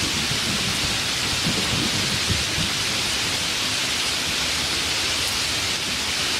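Heavy rain falling as a steady hiss, with a low rumble of thunder dying away in the first couple of seconds.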